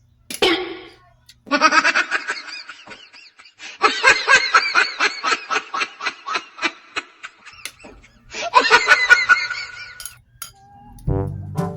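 Hearty laughter in several long, rapidly pulsing runs with short breaks between them.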